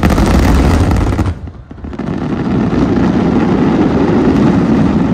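Mass barrage of large aerial firework shells (12-inch shakudama) bursting, a dense, continuous rumble of booms. It cuts off abruptly after about a second, then comes back half a second later and carries on loud.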